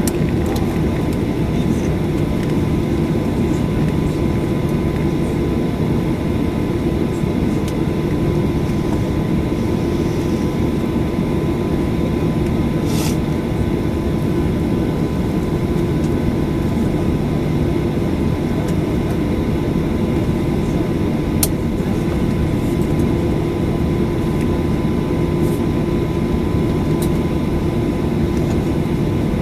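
Boeing 737-800 cabin noise heard from a window seat: the CFM56-7B jet engines and airflow make a steady drone with a few constant hum tones. Two faint clicks sound about halfway through and again about two-thirds of the way in.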